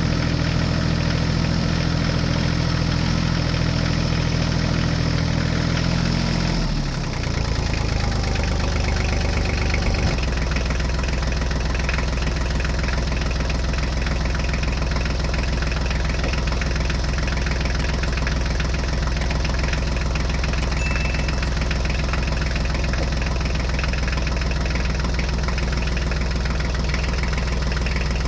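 Tractor engine idling steadily with a knocking beat. Its note changes about seven seconds in, then settles into a lower, steady idle about ten seconds in.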